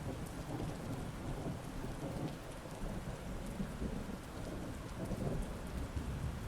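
Heavy rain falling steadily, with low rolling thunder rumbling underneath in swells.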